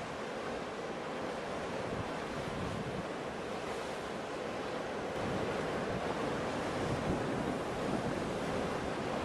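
Ocean waves: a steady rushing wash of surf that swells a little louder about halfway through.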